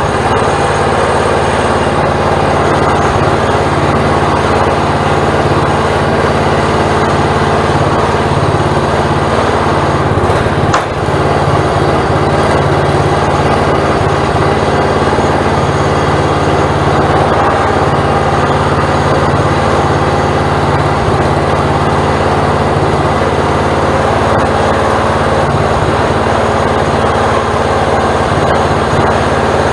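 Small petrol engine running steadily at high speed, its note barely changing, with a brief dip about 11 seconds in.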